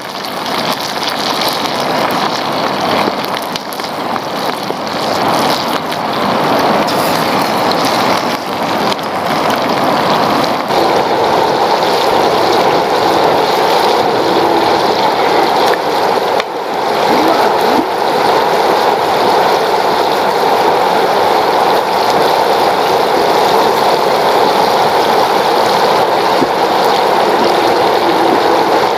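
Whole sparrows deep-frying in hot oil: a steady sizzling and bubbling that grows fuller and a little louder about ten seconds in.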